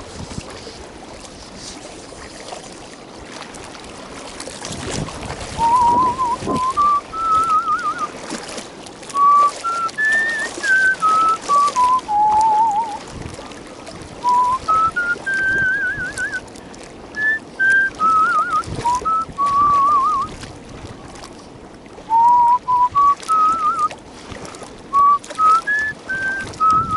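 A man whistling a slow melody in clear, wavering notes that rise and fall in phrases, starting about five seconds in, over a steady background of wind and water noise.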